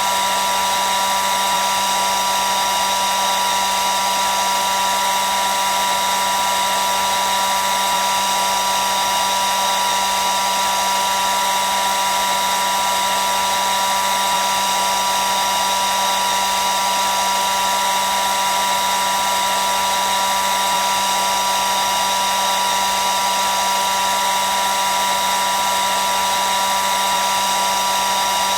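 Hair dryer running steadily: a constant rush of blown air with a steady motor whine and a low hum.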